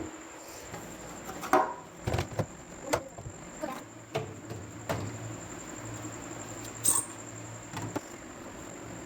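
Plastic containers and glass shelves knocking and clicking as they are set back into a refrigerator, about eight separate knocks. A low hum comes in midway, and a faint steady high whine runs underneath.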